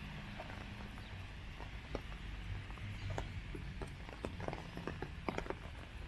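Rain falling, with a steady hiss and irregular raindrop taps on an umbrella overhead; the taps come more often in the second half.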